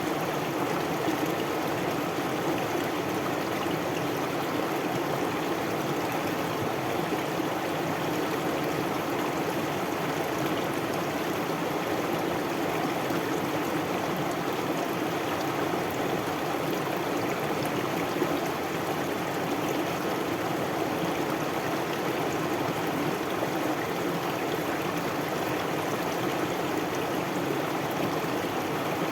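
Stream water flowing steadily, an even continuous sound with no change.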